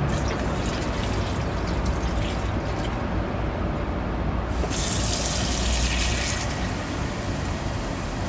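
Water running into the tub of a portable mini washing machine as it is filled: a steady rush that grows louder and hissier for about two seconds just past the middle.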